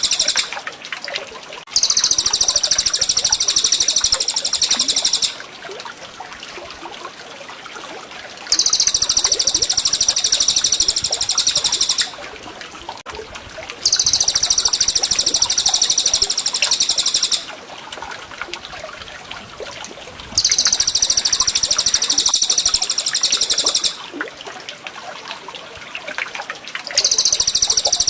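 Caged-songbird masteran birdsong: a loud, very high, rapid trill lasting about three and a half seconds, repeated about every six seconds. In the gaps there are softer bird calls over trickling water.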